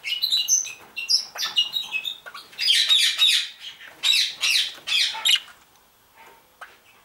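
Several budgerigars chirping and squawking, with quick overlapping warbles and harsh calls. It goes quiet at about five and a half seconds, leaving only a few faint notes.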